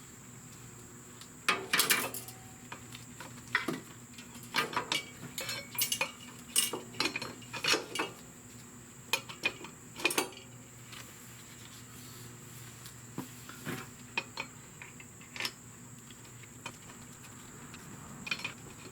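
Metal hand tools and brake parts clinking and knocking together in irregular, sharp hits while the rear brake caliper is being refitted and the torque wrench is readied.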